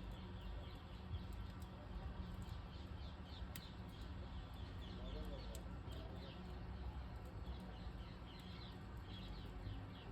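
Small birds chirping over and over, faint, over a low steady rumble, with an occasional single click.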